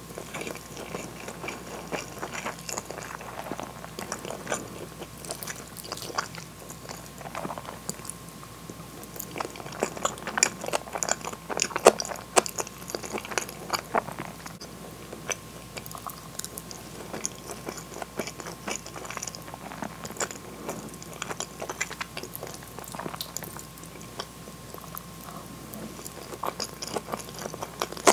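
Close-miked chewing of mouthfuls of rice and cheese-filled hamburg steak, with many irregular wet mouth clicks that are busiest around the middle. A faint steady high tone runs underneath.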